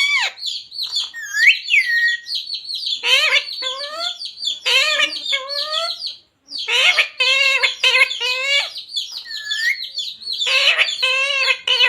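A green parrot calling and chattering in a run of short, voice-like squawks that waver and hook in pitch, in clusters with brief pauses and a short silence about six seconds in.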